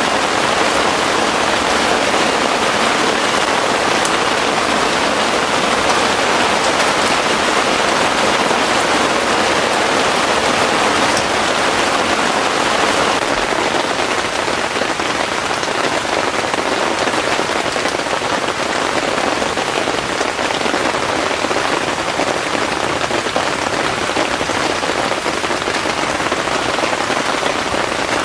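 Heavy rain falling steadily, a dense, even hiss with scattered drop ticks.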